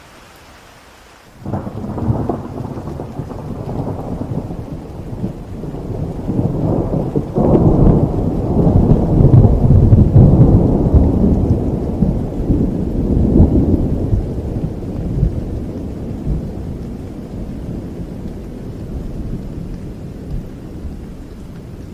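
Thunderstorm: steady rain, then about a second in a long rumble of thunder breaks in suddenly. The thunder swells with a second crash about seven seconds in and slowly dies away while the rain goes on.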